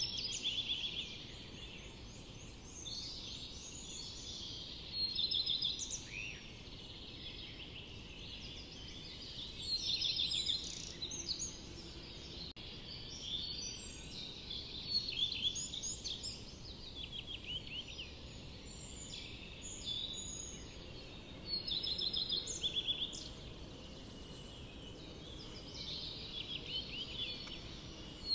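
Songbirds singing in a forest: short phrases of quick repeated notes and trills every few seconds, over a steady low background hiss.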